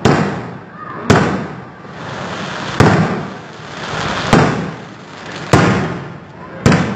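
Aerial firework shells bursting overhead: six loud bangs a second or so apart, each trailing off before the next.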